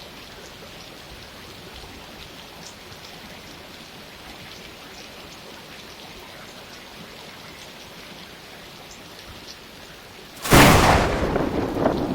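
Steady rain falling, with scattered drops ticking. About ten seconds in, a sudden loud thunderclap breaks and rumbles on.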